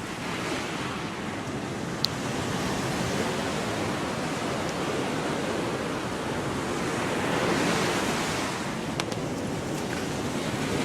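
Gulf of Mexico surf washing onto a sandy beach: a steady rush of small waves that swells up about three-quarters of the way through. A brief sharp click about two seconds in.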